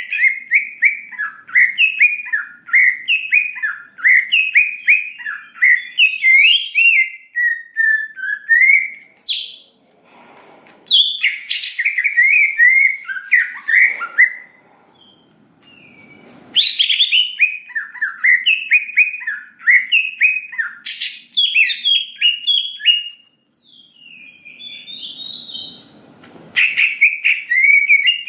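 Cucak ijo (green leafbird) singing in full, continuous song: fast runs of varied chirps and whistles, broken by a few short pauses and punctuated by several sharp, loud notes.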